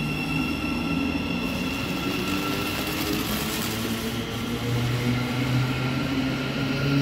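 A train running at the station, with a steady high whine over a low hum and a brief hiss about two to four seconds in.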